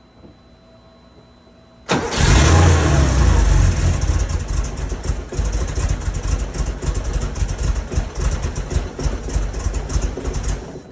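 Porsche 911SC's air-cooled flat-six catches about two seconds in and runs roughly, with an uneven, stumbling rumble, then stops suddenly near the end. The rough running is the sign of vacuum leaks.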